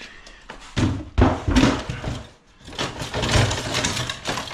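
Scrap metal pieces clattering and knocking as they are handled and sorted, in two rattling spells with a short lull between.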